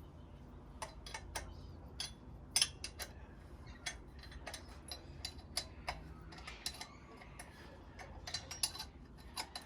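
Irregular metallic clicks and clinks of hand tools and bolts against the tractor's exhaust fittings, with a low hum underneath.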